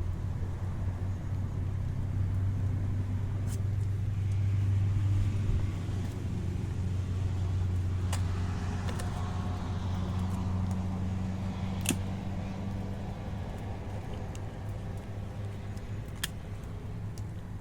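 A motor vehicle's engine running with a steady low hum, a few sharp clicks sounding over it.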